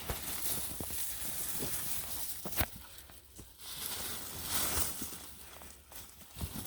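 Walking on a dirt trail with goats: scuffing footsteps and hooves, brush rustling, and scattered clicks, the sharpest about two and a half seconds in.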